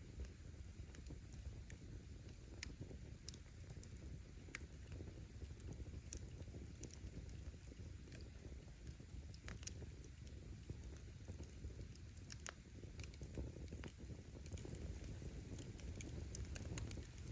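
Campfire of firewood crackling: irregular sharp pops and snaps, several a second, over a steady low rumble.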